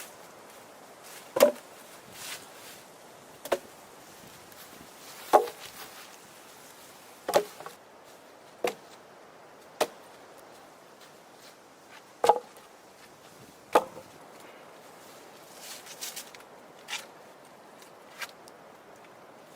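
Axe chopping wood: about eight sharp strikes, one every one to two seconds, then a few lighter knocks near the end.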